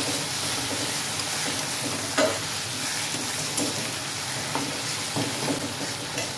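Onions and tomatoes sizzling in hot oil in a metal kadhai while a metal spatula stirs and scrapes through them, with a few sharp clinks of the spatula against the pan, the loudest about two seconds in.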